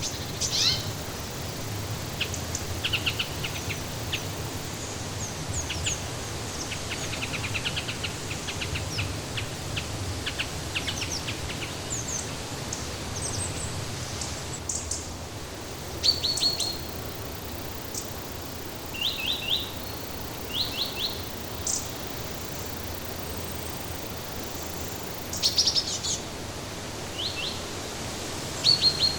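Songbirds chirping in short, quick trills and brief clusters of high chirps over a steady rushing background noise.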